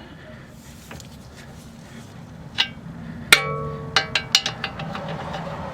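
Metal hand tools clanking on the strut's lower bolts. One knock, then a loud metallic clang about halfway through that rings on briefly, followed by a quick run of lighter clinks.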